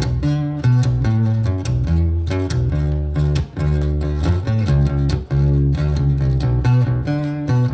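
Instrumental intro of a song played live on a baritone guitar with effects: a run of quick picked notes over deep, sustained bass notes. The music starts suddenly just before.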